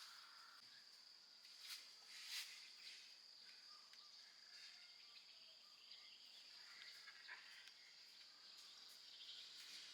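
Near silence: a faint, steady high-pitched whine with a couple of soft clicks about two seconds in.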